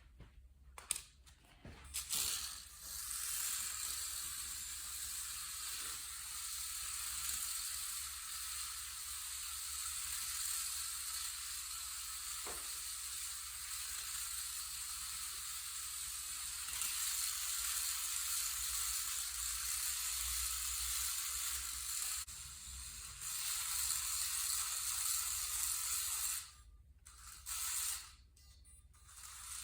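Hissing whir of a tiny 1:64-scale 4WD desktop drift RC car running, its small motor and gears driving the wheels. The sound cuts out twice near the end.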